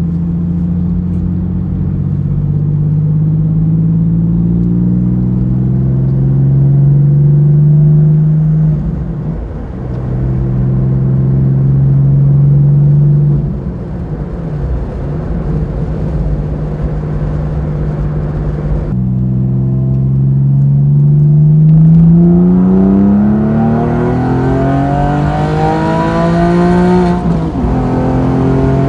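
Porsche 911 (996) Carrera 4 flat-six engine through an exhaust with its catalysts removed, heard from inside the cabin on the move. The revs climb slowly through a gear with an upshift about nine seconds in, and the engine runs off-throttle from a little before halfway. From about two-thirds through, the revs rise steeply under hard acceleration to another upshift near the end.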